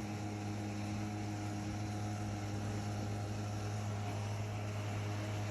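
Tractor engine running steadily at constant speed, a low even hum with no change in pitch.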